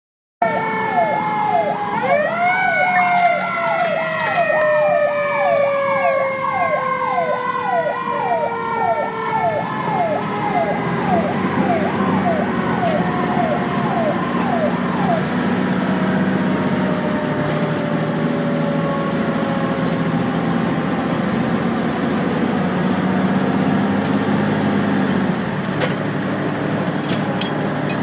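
Fire engine siren yelping about twice a second, with a second siren tone sliding slowly down in pitch; both fade out about halfway through. The fire truck's engine rumbles steadily underneath and carries on alone after the siren stops.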